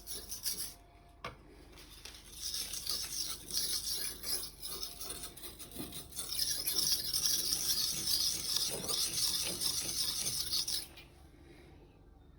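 A steel knife blade stroked back and forth on the coarse side of a dry sharpening stone, a rasping, grinding scrape. There is a short pause about a second in, and the stroking stops about a second before the end.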